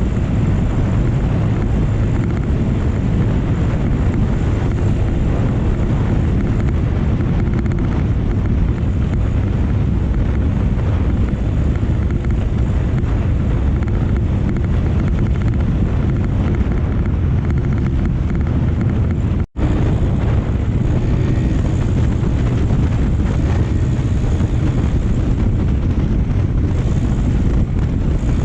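Steady wind buffeting the microphone over motorcycle engine and road noise while riding. The sound drops out for an instant about two-thirds of the way through.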